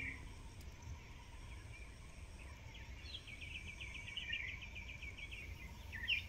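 Faint outdoor bird calls: a few short chirps, then a quick trill of repeated chirps lasting about two seconds midway, over a low background rumble.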